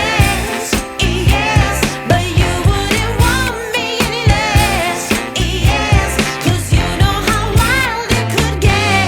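Pop song with a sung vocal line played at high volume over a Blizzard Audio 'horeg' sound system, its stacked subwoofers pushing a heavy, pulsing bass beat of about two strokes a second.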